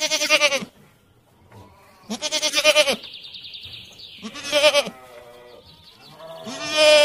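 Bleating livestock: four loud bleats about two seconds apart, each with a fast, quavering tremble. The last bleat is still going at the end.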